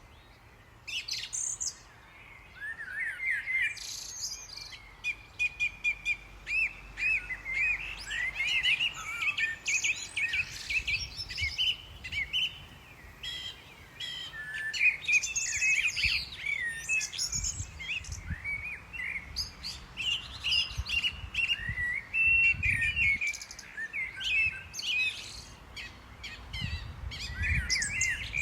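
Small birds chirping and twittering, many short quick calls overlapping without a break. Low rumbles come and go in the second half.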